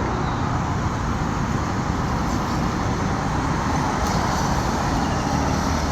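Steady road and traffic noise: a continuous rumble with an even hiss over it, unbroken throughout.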